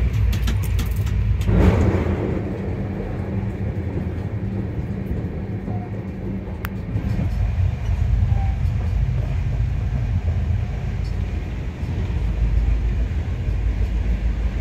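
Passenger train running along the track, heard from on board: a steady low rumble of the coach on the rails, with a few sharp clicks and a brief louder burst of noise about two seconds in.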